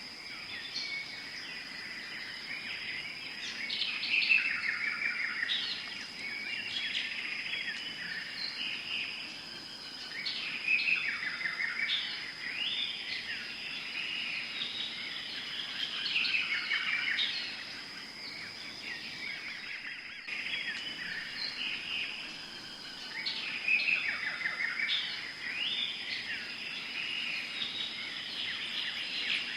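Tropical forest ambience: birds chirping and calling in busy phrases that swell every few seconds, over a steady high-pitched insect drone.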